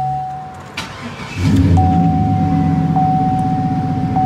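A 2001–2006 Chevrolet Avalanche's V8 is started: a click and a brief crank about a second in, then the engine catches and settles into a steady idle. The dashboard warning chime is a steady high tone with a tick about once a second. It drops out during cranking and resumes over the idle.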